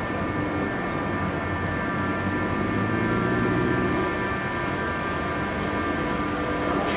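Sun City Sky Train running: a steady mechanical hum with several held tones over a low rumble.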